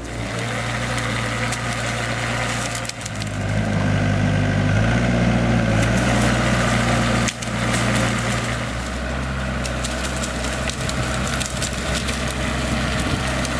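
A heavy forestry machine's engine running steadily, getting louder and shifting pitch under load a few seconds in, with wood cracking and splintering over it.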